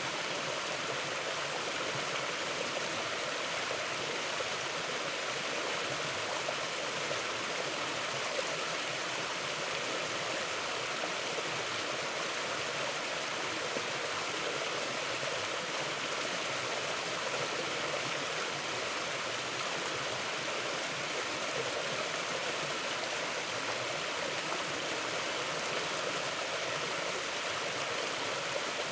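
Mountain river flowing, a steady even rush of water with no breaks or changes.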